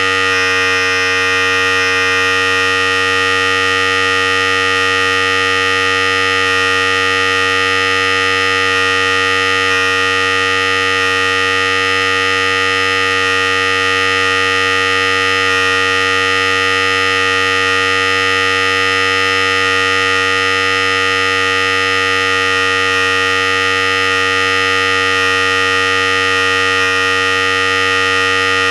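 Philips Series 5000 electric hair clipper running continuously, a steady unchanging electric buzz.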